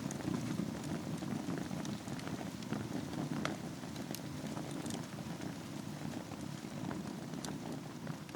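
Wood fire burning in a fireplace over embers: a steady low rumble of flames with irregular sharp crackles and pops, the two loudest a little over three and four seconds in.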